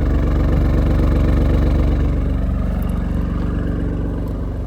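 2018 Alfa Romeo Stelvio Quadrifoglio's twin-turbo V6 idling steadily shortly after a cold start. It grows slightly quieter in the second half.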